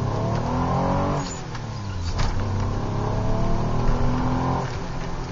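Alfa Romeo 164 QV's 3.0-litre 12-valve V6, heard from inside the cabin, pulling under acceleration: the revs climb, drop at a gear change just over a second in, climb again for a few seconds, and drop again near the end.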